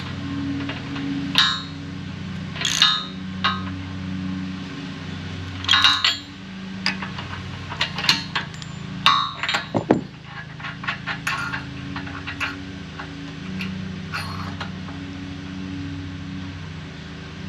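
Scattered metallic clinks, knocks and clanks of hand tools and steel parts being handled during assembly of a football tackling sled. A quick run of them comes about two-thirds of the way in, over a steady low hum.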